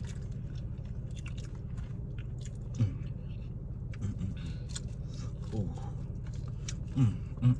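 Close-miked chewing and biting of fried chicken fingers and crinkle-cut fries, many small wet mouth clicks, with a few short hummed voice sounds in between.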